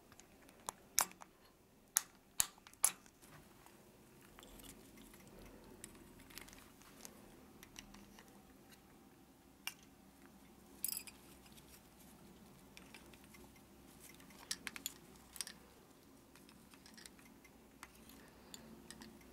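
Cape parrot working at a new cage toy of wood and plastic pieces: sparse, sharp clicks and knocks from its beak biting and handling the pieces, in clusters about a second in, near the middle and again later on, over a quiet background.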